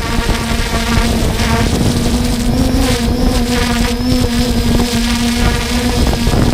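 3DR Solo quadcopter's motors and propellers humming steadily, the pitch wavering slightly, over wind rumbling on the microphone.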